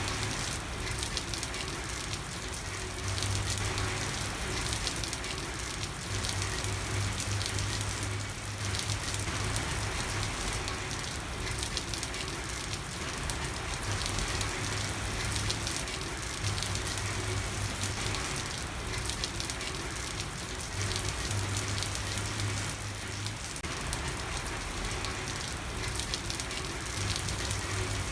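Steady rain falling on a street, a dense even patter of drops, with a low hum that comes and goes every few seconds underneath.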